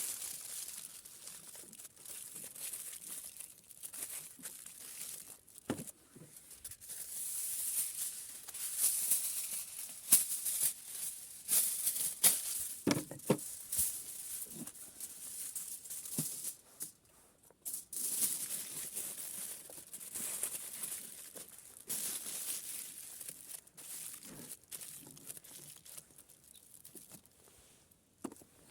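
Irregular rustling and crinkling with scattered clicks and taps, and a few louder knocks.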